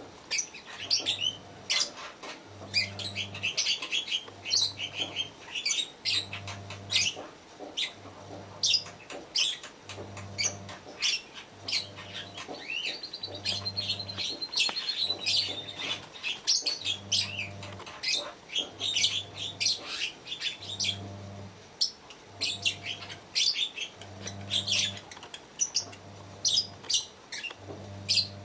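Lovebirds chirping and chattering in rapid short calls. Underneath is a faint low pulsing hum, about one pulse a second.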